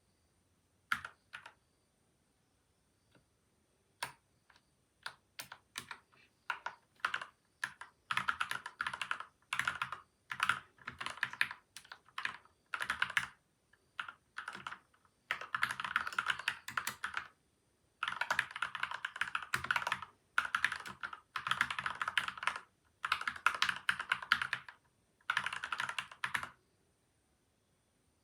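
Typing on a PCL87 mechanical keyboard with lubed Gateron Milky White and Outemu Yellow switches, taped and foam-dampened. A few scattered keystrokes come first, then fast runs of typing broken by short pauses, ending shortly before the end.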